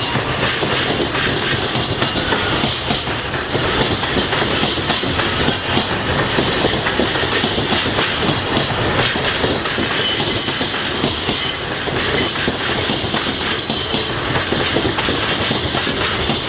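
Freight train wagons rolling past: a loud, steady clatter of steel wheels on the rails.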